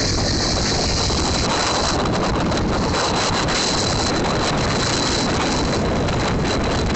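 Wind rushing over the microphone of a moving motorcycle, a loud, steady roar that covers the engine underneath.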